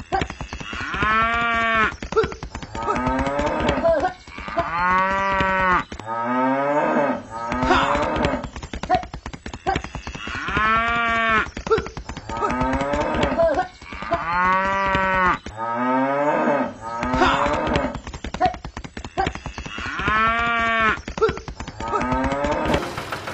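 Cattle mooing: several long moos, one every few seconds, each rising and then falling in pitch, over a busy barnyard background.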